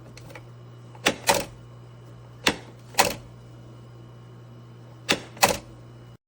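Three pairs of sharp clicks over a steady low hum.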